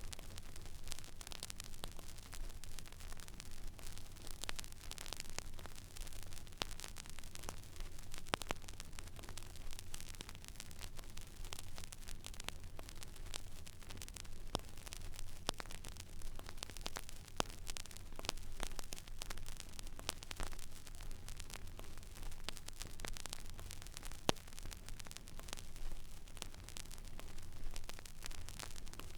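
Stylus tracking an empty vinyl record groove: steady surface hiss with many scattered crackles and pops at irregular moments, over a low hum.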